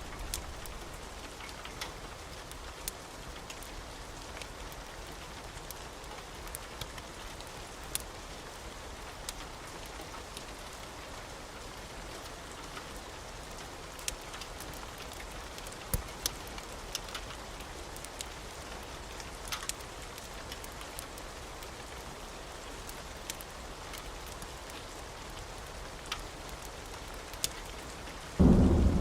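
Wood fire crackling over a soft steady hiss, with irregular sharp pops scattered throughout. Just before the end the sound jumps suddenly to a louder, deeper rush.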